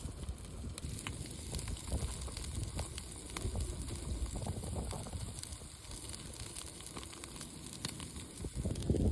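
Wood campfire crackling with scattered small pops, over a low rumble of strong wind buffeting the microphone.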